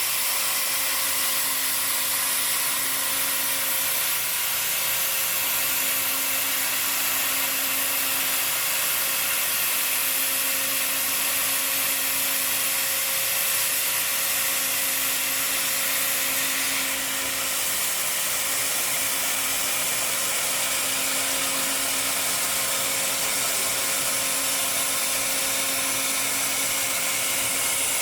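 Laser welding equipment running on a muffler: a steady hiss and whir with a constant tone, and a low hum that cuts in and out every second or two.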